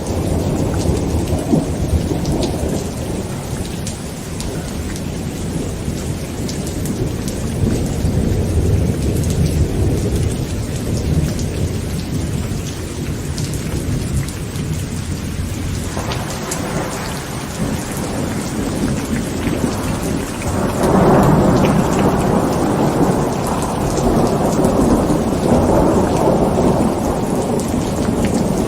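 Heavy rain falling on a tent, a steady hiss full of fine drop ticks, under rolling thunder. The thunder rumbles throughout, building a little past halfway and swelling loudest about three-quarters of the way in.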